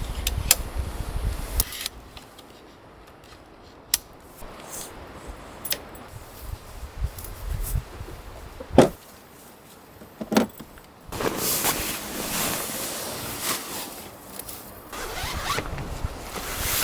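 Zipper being pulled amid gear-handling noises: scattered knocks, a sharp thump about nine seconds in, and a longer rasping stretch near the end.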